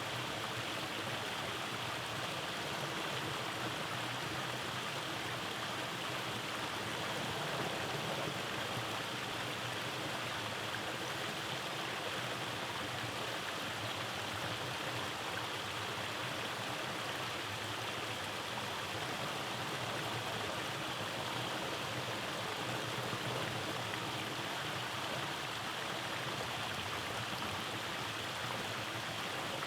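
Rainforest stream running over small cascades, a steady rush of flowing water.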